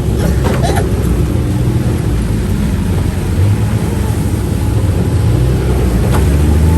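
UTV running on the move: a steady low engine and driving noise, with a few short clicks or knocks.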